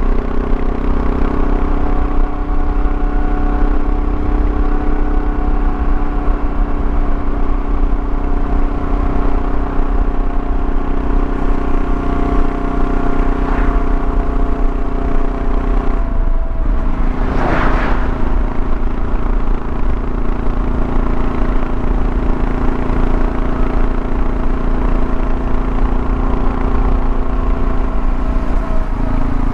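Kawasaki KLR650's single-cylinder engine running steadily under way, with road noise. About halfway through the engine note changes, and a brief whoosh swells and fades just after; near the end the note changes again.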